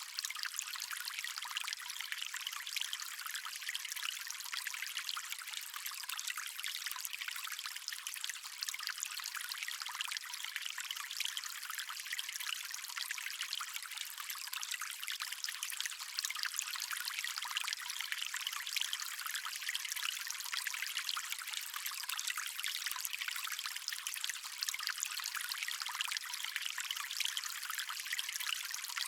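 Water stream flowing in a steady, even trickle and splash, thin and hissy with almost no low rumble.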